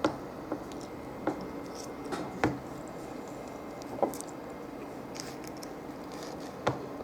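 A person chewing a mouthful of breakfast burrito, with a handful of short, wet mouth smacks spread over several seconds.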